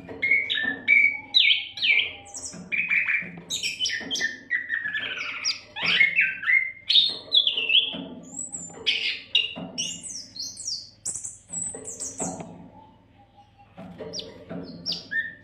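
Oriental magpie-robin (kacer) singing a fast, varied song of whistles and chirps, with a brief pause near the end.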